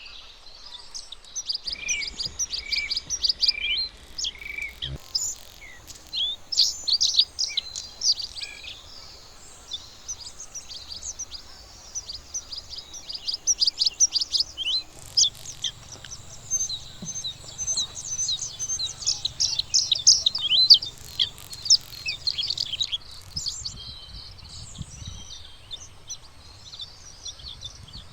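Bluethroat singing: phrases of rapid, varied high chirps, trills and buzzy notes, separated by short pauses.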